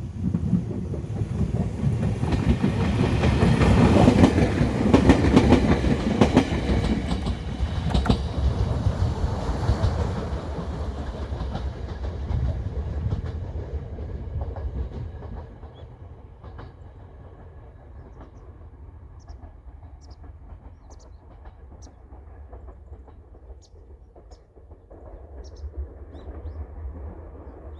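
Bessho Line 6000 series two-car electric train passing, its wheels clicking over the rail joints, loudest about four to six seconds in and dying away to a low rumble by about fifteen seconds.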